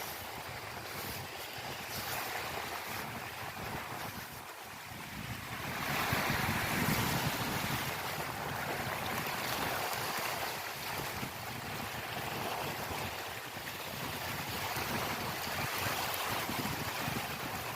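Ocean waves washing in, an even rushing noise that swells louder about six seconds in, with wind.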